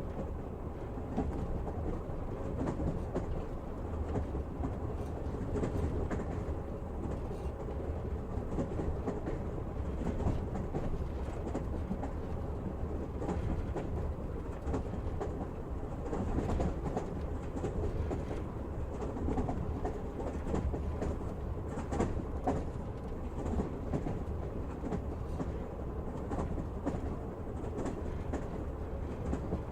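Passenger train running, heard from inside a carriage: a steady rumble of wheels on the rails with faint, irregular clicks.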